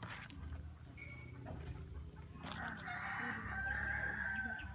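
A rooster crowing: one long drawn-out crow starting about halfway through and running almost to the end, over a low steady rumble.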